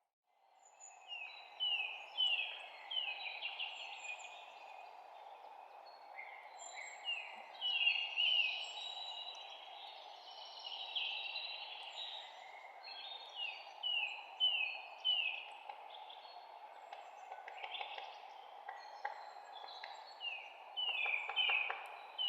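Songbirds chirping and singing, with repeated quick runs of short falling notes and scattered calls, over a steady background hiss.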